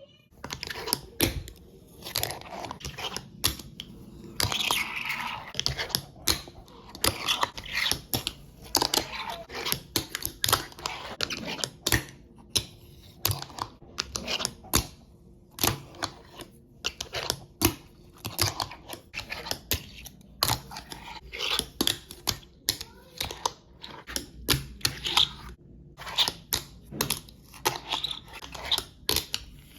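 Fingerboard on maple wheels rolling over concrete with a gritty rattle, broken by many sharp clacks as the deck is popped and lands, with short pauses between runs.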